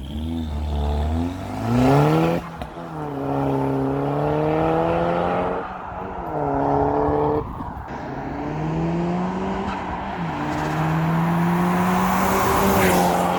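Car engine accelerating hard, its pitch climbing and then dropping back several times as it runs up through the gears.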